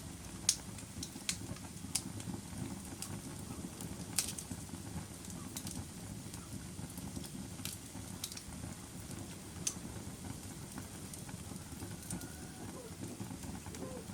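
Wood fire burning in a fireplace: a steady low rumble of flames with sharp crackles and pops scattered through it, a few of them loud.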